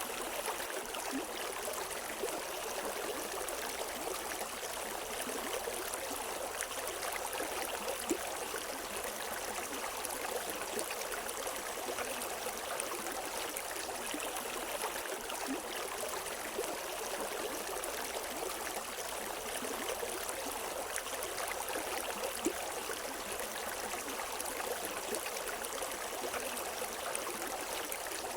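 River water flowing over rocks: a steady rushing and babbling with small splashes, no birds.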